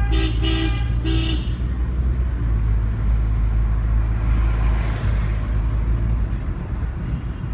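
A car horn honks in three short blasts during the first second and a half, over the steady low rumble of a moving car's engine and road noise heard from inside the cabin. About halfway through, a rushing noise swells and fades.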